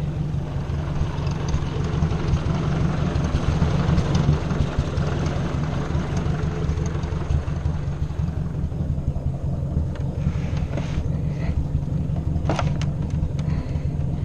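Ford 600 tractor's four-cylinder gas engine running steadily, with a few sharp knocks near the end.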